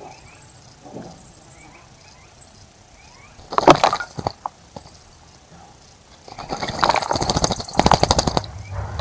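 A small bird bathing in a bird bath, flicking its wings through the water in rapid splashing flutters: a short bout about three and a half seconds in and a longer one from about six seconds in to near the end. Faint bird chirps sound in between.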